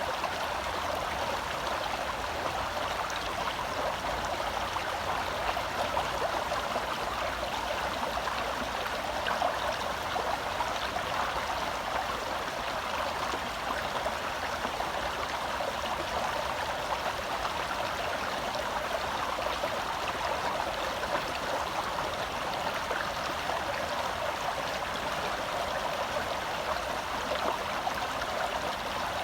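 Shallow forest stream flowing and babbling over rocks, a steady rush of water.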